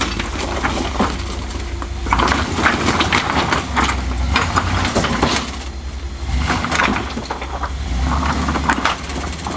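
Off-road vehicle's engine running with a steady low rumble as it crawls up a rock ledge. Repeated clanks, knocks and scrapes come in bunches as the underside and tires hit the rock.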